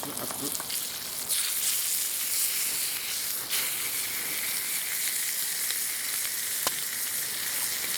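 Thick pork belly block searing in a hot cast-iron skillet, the fat sizzling and spattering steadily. The sizzle grows louder about a second in, and a single sharp tick sounds near the end.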